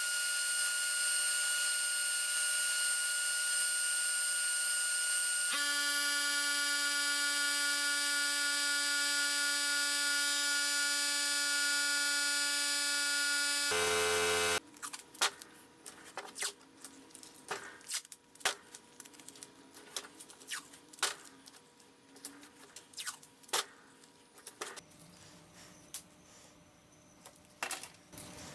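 A small high-speed electric power tool runs with a steady whine, shifting to a different pitch about five seconds in, then stops abruptly about halfway through. After it, light scattered clicks and taps of parts being handled follow.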